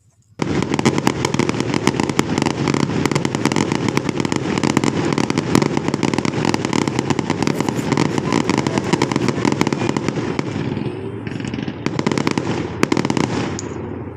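Fireworks going off in a loud, dense, rapid string of bangs that starts suddenly about half a second in, keeps going without a break, and thins out near the end.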